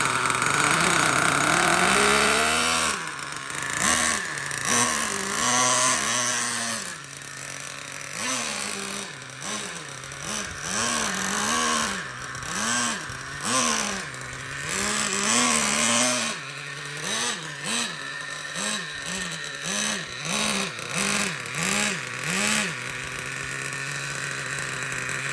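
Traxxas Revo 3.3 nitro RC truck's small two-stroke glow engine running at high revs for the first few seconds, then blipped up and down in quick repeated revs, and settling to a steady idle near the end. The owner suspects it is getting too much fuel and needs a tune.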